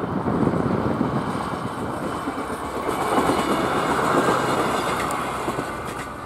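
PESA 620M diesel railbus passing close by, its wheels running on the rails, growing quieter over the last couple of seconds as it draws away.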